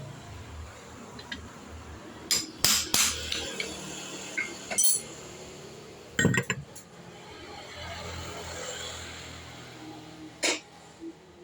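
Metal clinking and knocking, as of tools and parts being handled: a few sharp separate strikes, a cluster of three a couple of seconds in and single ones around the middle and near the end, over a low steady hum.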